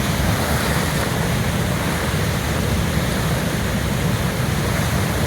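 Flooded St. Louis River rushing through rapids at close range, a steady heavy roar of churning whitewater with deep rumble. Wind noise on the microphone likely mixes in.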